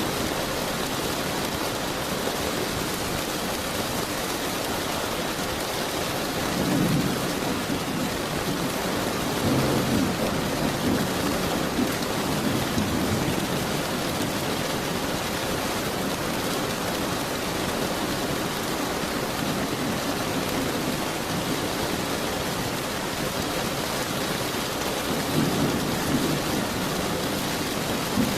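Steady heavy rain hissing, with low rolls of thunder rumbling in about a quarter of the way in, again from about a third of the way to nearly halfway, and near the end.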